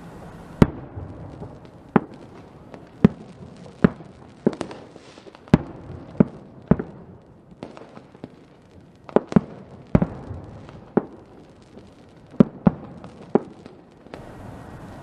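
Fireworks going off: about fifteen sharp bangs at uneven intervals, some in quick pairs, over a steady hiss. There is a short lull near the middle.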